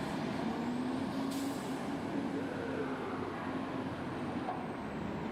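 Heavy truck engine running steadily in traffic, with a short hiss of air about a second in, like an air brake releasing.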